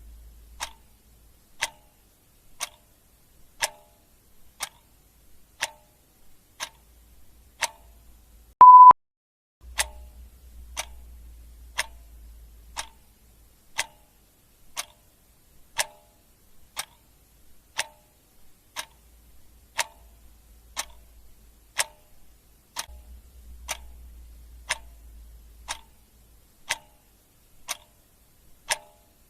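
Clock ticking steadily, one tick a second, with a single short beep about nine seconds in.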